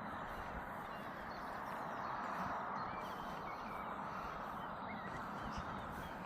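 Steady outdoor background noise with brief, faint bird calls scattered through it.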